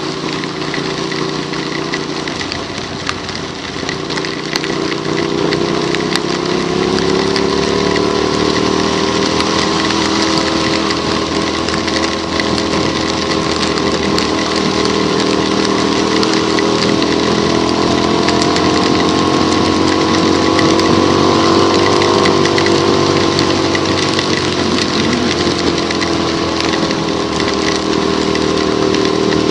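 Small motorcycle engine under way, its pitch climbing slowly as the bike gathers speed for a quarter of a minute, then easing off near the end. A steady hiss of tyres and water spray on a rain-soaked road runs under it.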